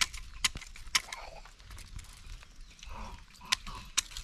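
Footsteps on hard ground while walking, a sharp step about every half second, with faint voices in the background.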